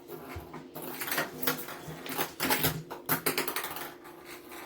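Rapid, irregular clattering and rattling of a cat toy as a kitten bats it around.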